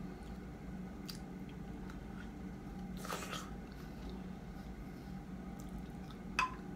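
Close-up mouth sounds of someone chewing soft, ripe baby mango flesh with the mouth closed, with small wet clicks, over a steady low hum. A sharp click near the end is the loudest sound.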